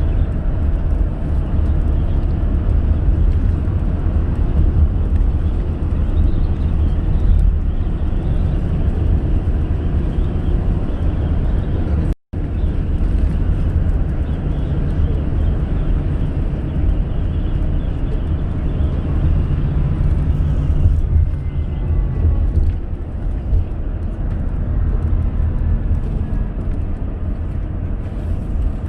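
Steady low rumble of a car driving on an expressway: road and engine noise. The sound drops out completely for a moment about twelve seconds in.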